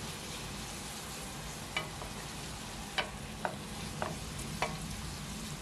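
Chopped onions and green peppers sizzling in olive oil in a stainless steel pot, stirred with a wooden spoon that knocks against the pot about five times.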